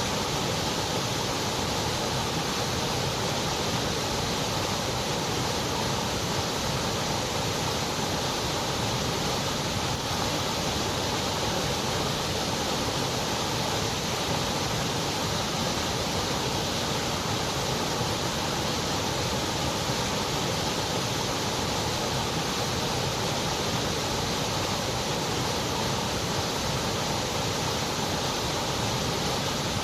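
Steady, unbroken white noise: an even hiss at one level that never changes, with its top end cut off sharply above the upper treble.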